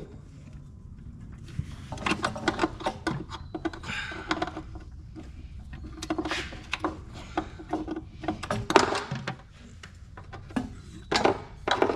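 Irregular clicks, knocks and rustling of wiring being fed and pulled through a golf cart's body during a compressor install. The sounds are busiest through the middle and fall quieter a little before the end.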